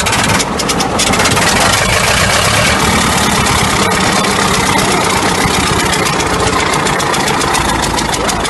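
Old diesel engine running loudly just after starting, with a fast, even firing clatter.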